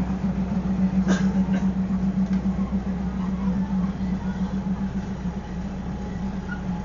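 An engine running steadily, a low even hum that throbs slightly, with a single short click about a second in.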